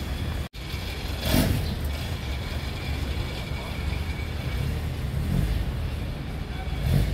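A classic car's engine running with a steady low rumble as it pulls away at low speed, with a short sharp burst of noise about a second and a half in and a smaller one near the end. The sound cuts out for an instant about half a second in.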